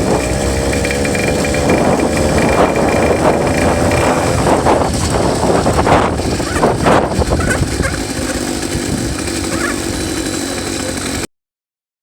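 66cc two-stroke bicycle engine kit running while the bike is ridden, its note rising and falling with the throttle under a rushing noise, then cutting off suddenly near the end.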